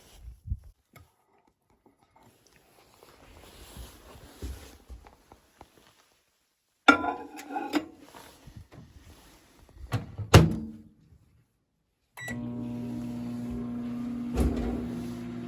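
Dishes and a microwave oven being handled, with clatter and a sharp clack of the door shutting, then from about twelve seconds in the microwave running with a steady hum, heating food.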